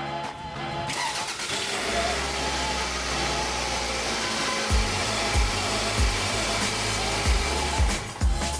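Toyota RAV4 II's 2.0 VVT-i four-cylinder petrol engine starting about a second in and then idling steadily, run after the fresh oil fill. A music beat plays underneath from about halfway.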